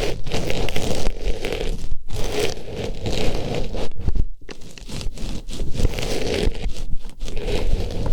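Artificial rose pushed into and rubbed around an ear-shaped microphone: loud, close rustling and scraping in repeated strokes, with brief pauses about two and four seconds in.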